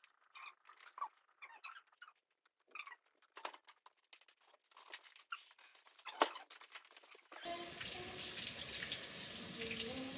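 Small scattered clicks and taps of handling, then about seven seconds in a water tap is turned on and runs steadily into a sink.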